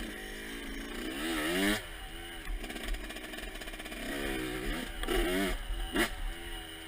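Motocross bike engine running under way, its pitch climbing and falling as the throttle is opened and closed, with strong revs about one and a half seconds in and again about five seconds in.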